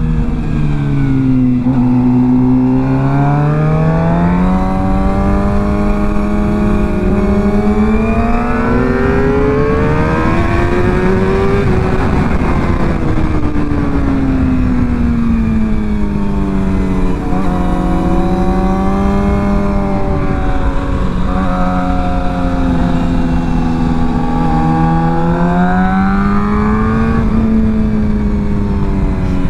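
Motorcycle engine revving up and falling back repeatedly through the gears while riding twisty roads, its pitch rising to a high point about twelve seconds in and then dropping, over a steady low rush of wind.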